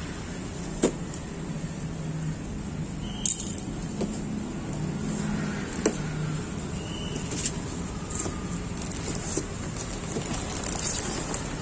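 Steady vehicle engine noise, with a few sharp clicks about one, three and six seconds in.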